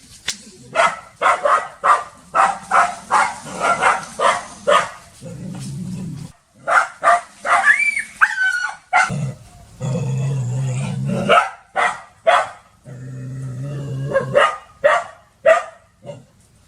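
A dog barking hard in quick runs of sharp barks, about two to three a second, broken by three longer stretches of low growling. There is a brief high yelp about eight seconds in.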